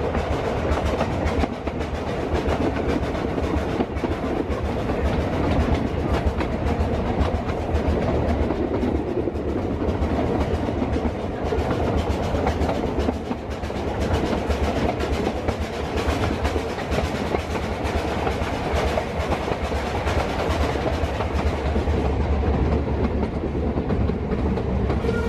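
Open carriage of a narrow-gauge steam train running along the track: a steady rumble and rattle, with the clicking of wheels over the rails.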